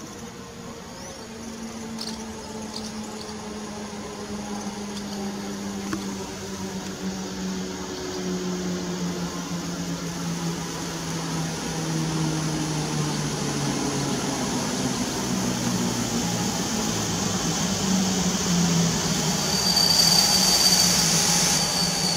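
EP09 electric locomotive hauling an Intercity passenger train approaching and slowing: a mechanical hum and whine that steps down in pitch as it loses speed, growing louder as it nears. Near the end a high squeal with hiss comes in as the brakes and wheels bite.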